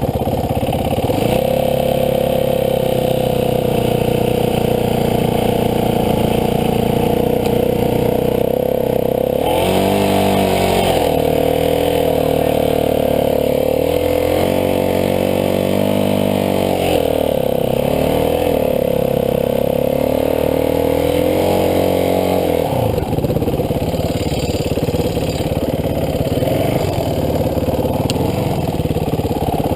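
Dirt bike engine running under way, its revs rising and falling several times in the middle stretch as the throttle is worked, then running steadier near the end.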